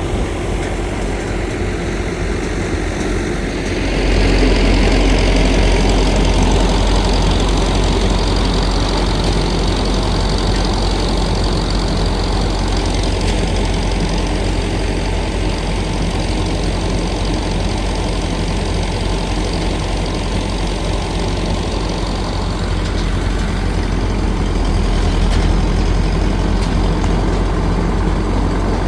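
An engine running steadily under load, with a deep, even hum; it gets louder about four seconds in and stays so.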